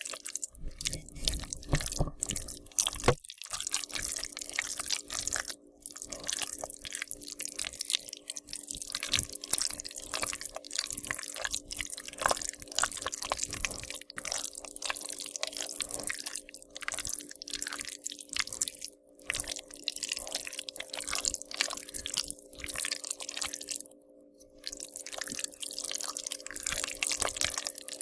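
Zombie-feeding horror sound effect: a continuous stream of wet, irregular chewing and squelching smacks, over a steady low hum.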